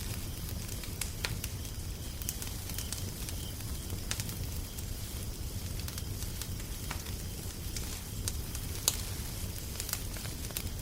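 Wood fire crackling, with irregular sharp pops and snaps, a louder one near the end, over a steady low rumble.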